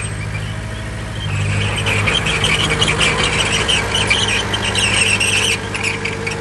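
Bulldozer's diesel engine running steadily, joined about a second in by a high metallic squeal with rapid clicking from the moving machine.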